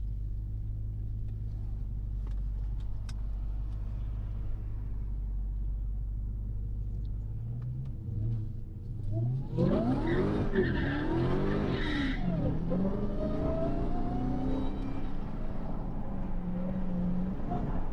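Dodge Charger Hellcat's supercharged 6.2-litre Hemi V8 idling steadily, then from about eight seconds in revving and accelerating hard, its pitch rising and falling repeatedly as it pulls away.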